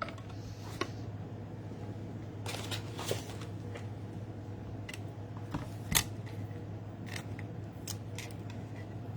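Hand-cranked Stampin' Cut & Emboss die-cutting machine being turned to run a die and a cardstock tag through its rollers: scattered clicks and creaks, the sharpest about six seconds in, over a steady low hum.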